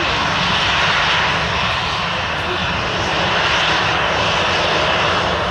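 Jet airliner engines running, a loud steady rush of noise with a deep rumble underneath that swells slightly about a second in.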